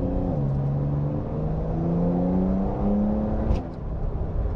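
Porsche 911 (992) flat-six engine accelerating. Its pitch drops at a gear change just after the start, climbs steadily, then falls off sharply about three and a half seconds in.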